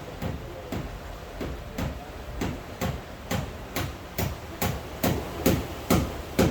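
A steady hiss of rain with a run of evenly spaced knocks, a little over two a second, growing louder toward the end.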